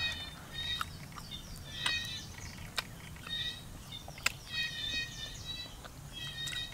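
Birds calling: short, high calls repeated over and over at several pitches. A few sharp knocks fall between the calls, the loudest about four seconds in.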